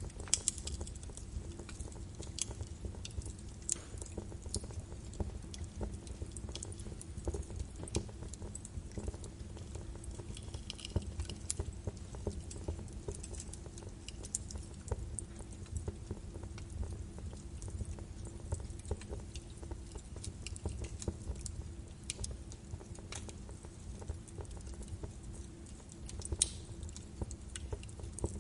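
Birch wood fire burning in a fireplace: a low steady rumble of flames with frequent irregular crackles and sharp pops of the burning logs.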